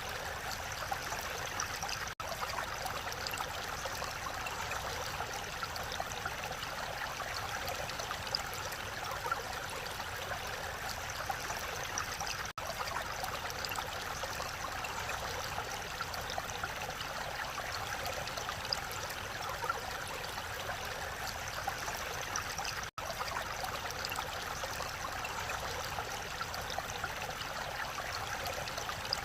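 Mountain valley stream flowing steadily with an even rushing sound, broken by three split-second dropouts about ten seconds apart.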